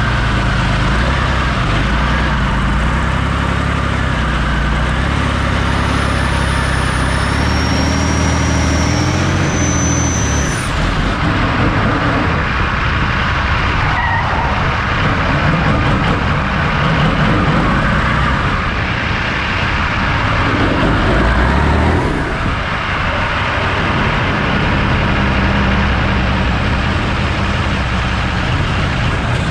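Engine of a stripped-down drift show car running hard and revving up and down, with tyres skidding on tarmac as it slides through the turns.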